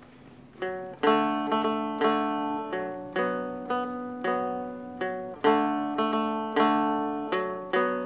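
Seagull Merlin M4, a four-string fretted dulcimer-style instrument, picked and strummed in a repeating pattern: a root note on the low string, a strum, an up-and-down on the middle string, then another strum. The open strings ring on between strokes. It starts about half a second in, after a faint fading note.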